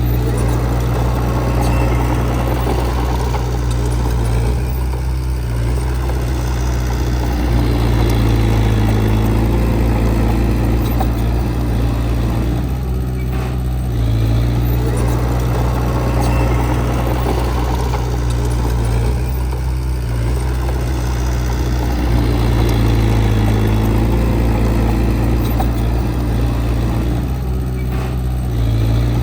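Heavy diesel engine of earthmoving equipment running steadily, its note swelling and easing back every six or seven seconds as the load comes on and off.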